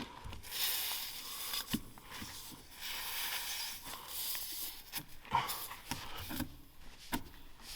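Tools scraping and clicking against a tractor tyre as a nail is worked out of the tread, in short irregular scratchy bursts with small clicks.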